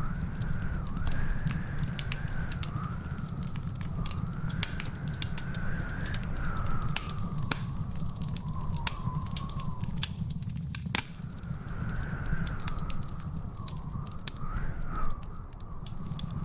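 Wood fire in a fireplace crackling, with frequent sharp pops over a steady low rumble. A thin whistling tone wavers up and down above it, dropping out for about a second and a half past the middle.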